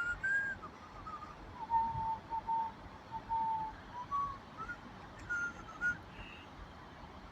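A person whistling a slow tune of clear held notes that dip to a lower run in the middle and climb again, over a steady background hiss.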